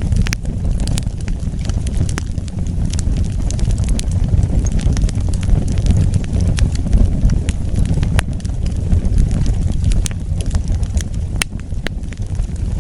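Wood fire burning, a steady low rumble of flames with frequent sharp crackles and pops at irregular intervals.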